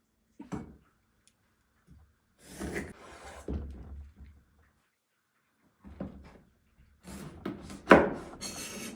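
Kitchen handling sounds: knocks and rubbing of objects being set down and slid on a wooden surface, in short clusters, with one sharp knock near the end.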